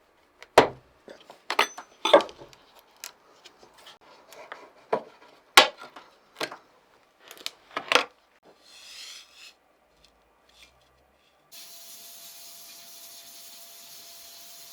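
Workshop handling sounds: a series of sharp knocks and clinks as tools or parts are picked up and set down, with a brief hiss. About three-quarters of the way through, a steady machine hum starts up.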